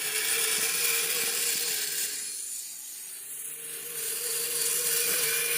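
Radio-controlled snow vehicle's small electric motor and gear drive whining steadily with a rasping hiss as it runs through snow. It eases off about two seconds in and picks up again near four seconds.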